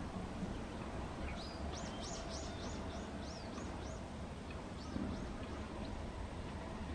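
A small songbird calling a quick series of high, sharp notes, about four a second, then a few more notes a couple of seconds later, over a steady low background rumble.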